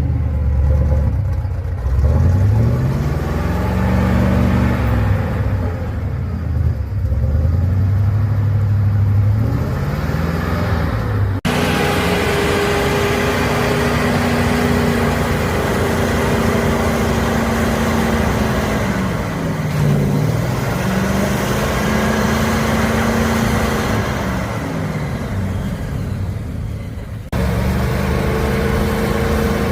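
Heavy 6×6 trial trucks' engines running under load, revving up and down over and over. The sound jumps abruptly twice, about eleven seconds in and near the end, as one truck's engine gives way to another.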